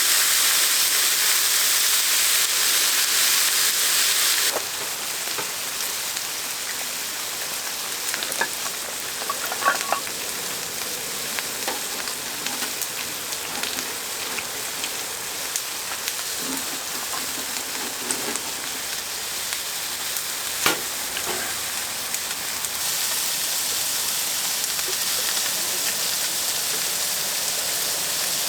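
Food sizzling in a hot pan: a steady frying hiss, louder for the first four seconds or so, with a few light clicks and one sharp tap about two-thirds of the way through.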